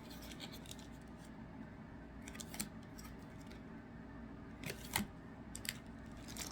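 Faint handling of trading cards and their foil packs: a few short, sharp clicks and snips, two little clusters of them in the middle and later on, over a quiet background.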